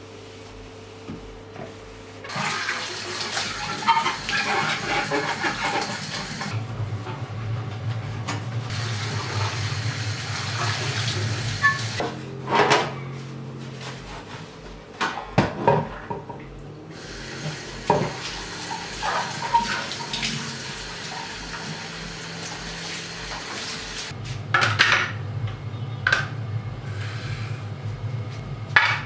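Tap water running into a sink on and off, with clinks and knocks of dishes or fridge parts being handled and washed.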